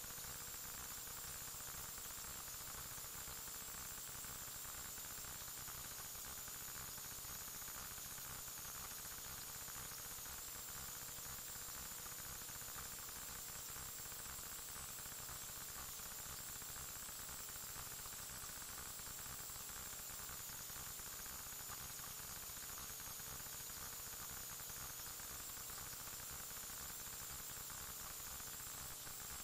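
Steady electronic static and hiss with a faint high whine and a low hum, the noise floor of the recording itself; no event is heard.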